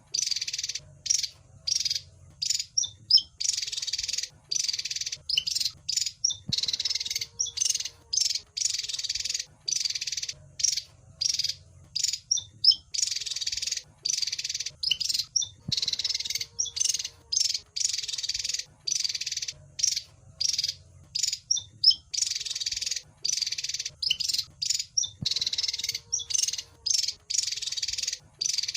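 Javan fulvetta calling: rapid, high-pitched, buzzy chattering notes in bursts with short gaps. The same sequence repeats about every nine seconds, as in a looped recording.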